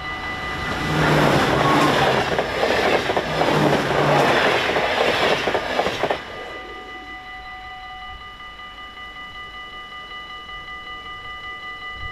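A train passes over the level crossing from about a second in until about six seconds, a loud rush with a fast clatter of wheels over the rails. Throughout, the crossing's warning bells ring steadily, and they carry on alone once the train has gone.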